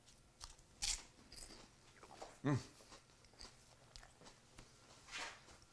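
Crispy baked phyllo pastry cup crackling and crunching as it is bitten and chewed, in scattered short crunches. A short hummed "mm" about two and a half seconds in.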